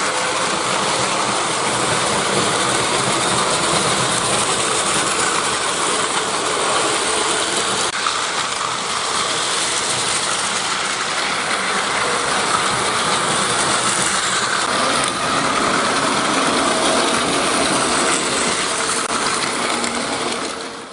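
A train running on its track: a steady, dense rattling rumble with mechanical clatter, holding level throughout and cutting off at the end.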